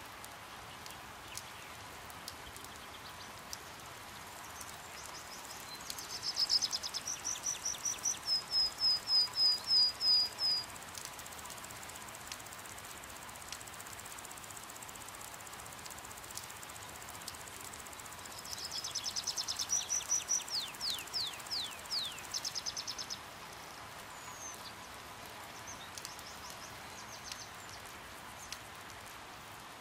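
Steady patter of rain, with a small bird calling twice in rapid series of high chips, the second series ending in quick falling notes.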